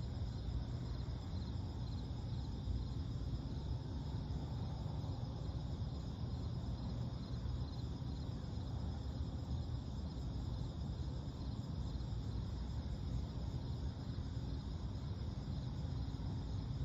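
Steady night chorus of crickets: an unbroken high pulsing chirr, over a constant low rumble.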